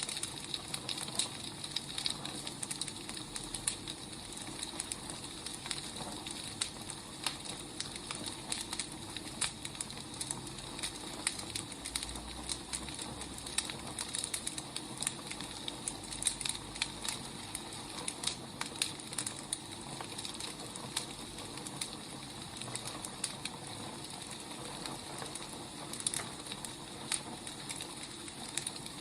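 Wood fire burning, its logs crackling and popping irregularly over a steady hiss.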